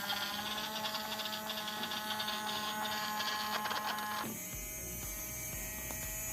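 Small electric motors of a dual-motor RC toy truck running with a steady whine. About four seconds in the pitch changes and a low hum takes over.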